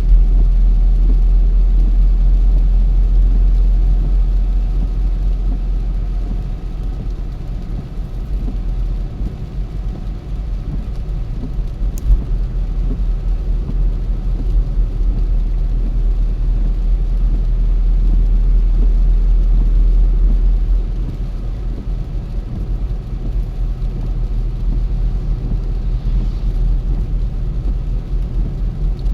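A car being driven: steady low rumble of road and engine noise, easing a little at times, with a single sharp click about twelve seconds in.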